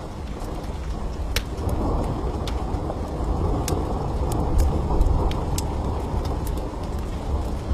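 Rolling thunder rumbling low over steady rain, swelling louder about a second and a half in, with scattered sharp crackles of a wood fire in a fireplace.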